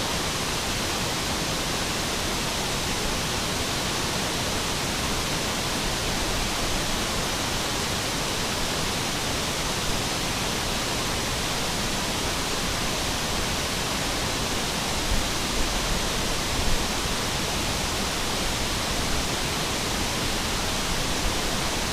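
Waterfall: a steady rush of falling water, with a few soft low bumps about two-thirds of the way through.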